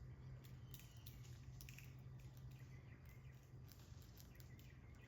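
Near silence of backyard ambience: faint scattered ticks and rustles with a few faint bird chirps, over a steady low hum.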